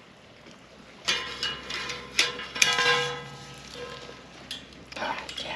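Metal cooking gear over a campfire clanking several times, with a brief ringing clang about two and a half seconds in, as a grill or pan is taken off the fire.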